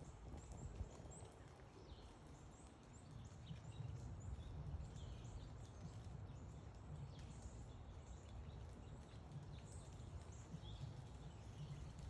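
Small songbirds, chickadees and tufted titmice, giving many short, high chirping calls over a steady low rumble.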